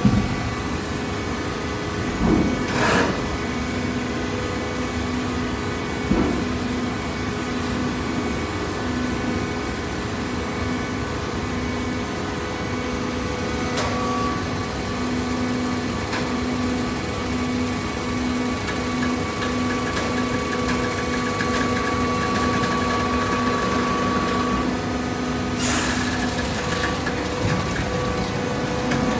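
Hydraulic baler running with a steady machine hum, with a few sharp clanks, the loudest about three seconds in and near the end.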